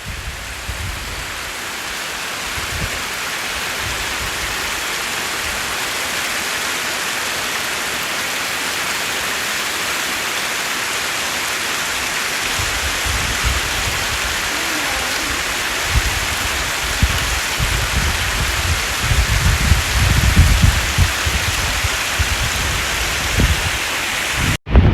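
Steady rushing hiss of falling water, with wind buffeting the microphone in gusts during the second half.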